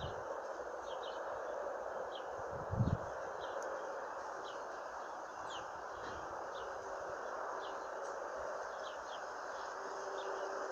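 Outdoor ambience: small birds chirping in short, high notes, about one or two a second, over a steady hiss. A single low thump about three seconds in.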